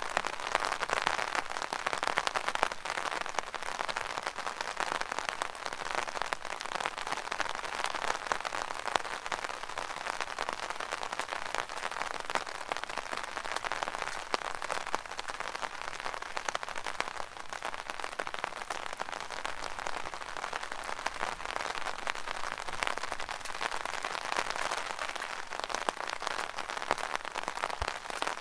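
Rain drumming steadily on an umbrella canopy: a dense, even patter of countless drops.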